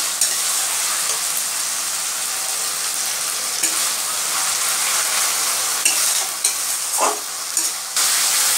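Sliced onions and ginger-garlic-green chilli paste sizzling steadily in hot mustard oil in a wok. They are stirred constantly with a metal spatula, which scrapes and clicks against the pan, while the masala is being fried down (kosha).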